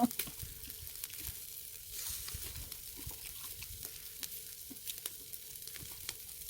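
Pork neck grilling over a charcoal brazier: a steady sizzle of meat and fat on the heat, with many small crackles and pops.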